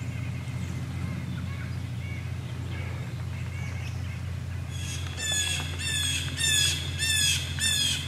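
A bird gives a quick series of about five loud, squawking calls, each dropping slightly in pitch, in the last three seconds. Fainter calls come before them, over a steady low hum.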